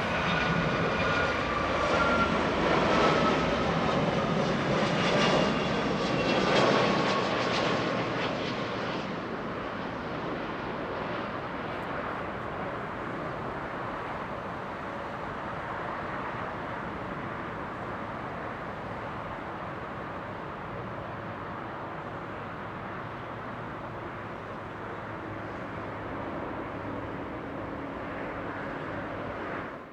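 Boeing 757-300 jet airliner passing close by, its engine whine sliding down in pitch as it goes past. The loudest part is the first several seconds, then a steadier, quieter jet noise that cuts off abruptly.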